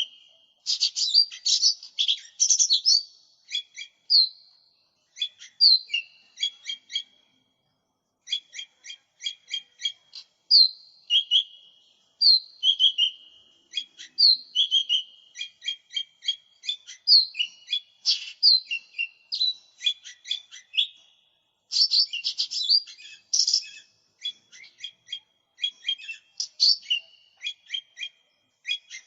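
Lesser green leafbird ('cucak ijo mini') singing a fast, varied song: rapid runs of short chirping notes mixed with brief whistled slurs, with one short pause partway through.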